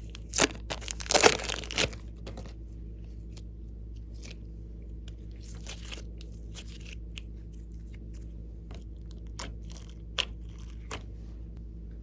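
Crackly crunching and tearing from hands working slime with mixed-in items, loudest in the first two seconds, then scattered small clicks and pops over a steady low hum.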